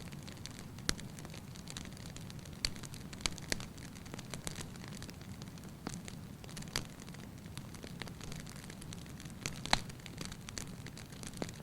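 Wood fire burning in a fireplace: a steady low rumble with irregular sharp crackles and pops, the loudest pop about ten seconds in.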